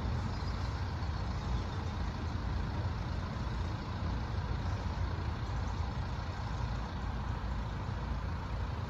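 Steady low rumble of road vehicles running and idling, with no single event standing out.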